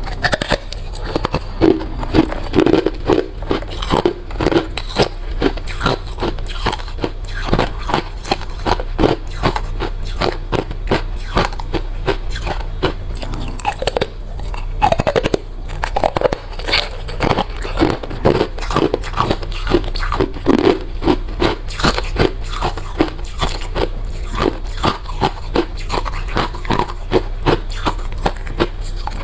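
Close-miked crunching and chewing of hard refrozen crushed ice, a dense run of sharp cracks and crackles with frequent louder bites.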